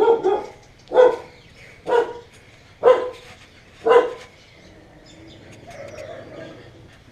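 A dog barking at an even pace, about one bark a second, five barks in all, stopping about four seconds in.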